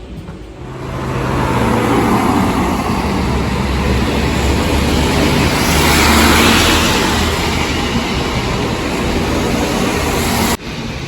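Steady road-vehicle noise with a low rumble, swelling to a peak about six seconds in and cutting off abruptly near the end.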